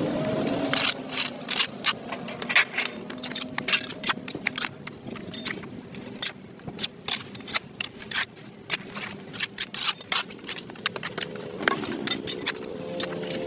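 Rapid, irregular scrapes and clicks of a hand tool working caked dirt off a concrete sidewalk. A low wavering tone fades out about a second in and comes back near the end.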